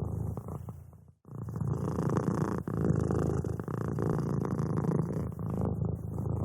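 A domestic cat purring: a steady, low, finely pulsing purr in long breath-length stretches, breaking off briefly about a second in and fading again near the end.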